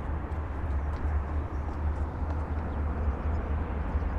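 Steady outdoor background noise: a low, fluctuating rumble of wind on the microphone over the distant hum of city traffic below.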